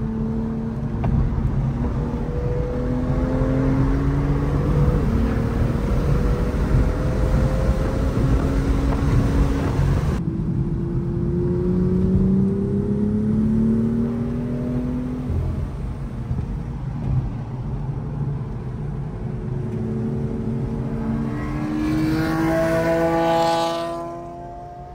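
BMW straight-six engine heard from inside the car under hard acceleration on track, its pitch rising through each gear and dropping back at each quick upshift, several times over. Near the end it revs hard once more before the sound falls away.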